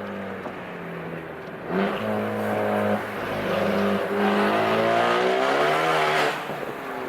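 2015 Ford Focus ST's turbocharged 2.0-litre four-cylinder through a catless downpipe, resonator-deleted exhaust and open electric cutout: running at low revs, a loud stab of throttle about two seconds in, then revs climbing steadily under acceleration before dropping away sharply about a second before the end as the throttle is lifted.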